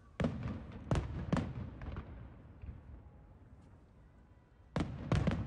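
Aerial firework shells bursting with loud bangs, each followed by a rolling echo: three bangs in quick succession in the first second and a half, a lull, then another cluster of bangs near the end.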